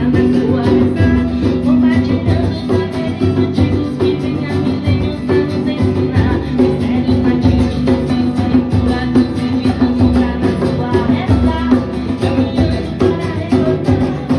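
Devotional prayer-band music with guitar and drums, playing at a steady beat.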